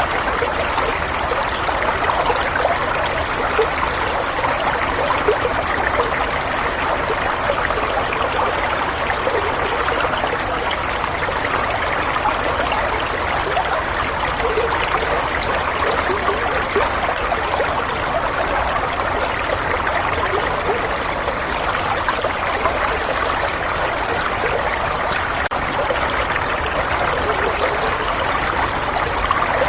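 Running water, a steady trickling, babbling flow with no change in level.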